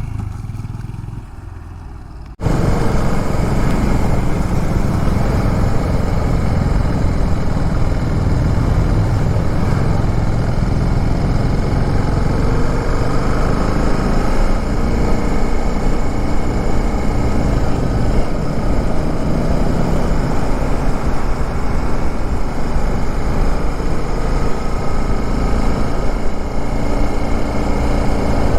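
A song fades out over the first two seconds, then a hard cut to a motorcycle engine running steadily on the ride, heard loud and close with a heavy low rumble.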